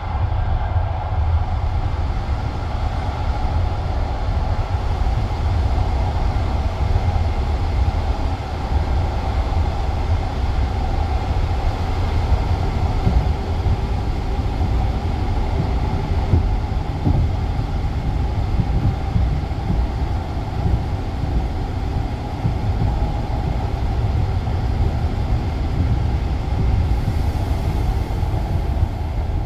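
A passenger train carriage running along the rails, heard from inside: a steady low rumble of wheels and running gear with no distinct clacks.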